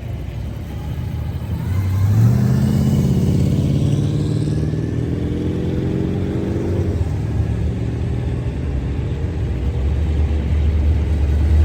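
A car engine running. From about two seconds in, its pitch climbs slowly for several seconds, then drops back to a lower steady note that grows louder near the end.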